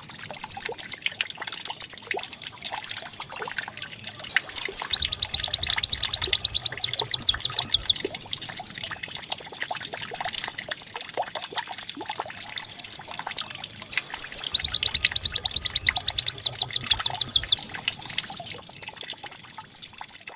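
White-eye (pleci) song played as a trigger track for caged birds: fast, high-pitched trills of rapidly repeated sweeping notes alternating with warbling phrases. The same sequence repeats about every ten seconds, with short breaks about four seconds in and near fourteen seconds.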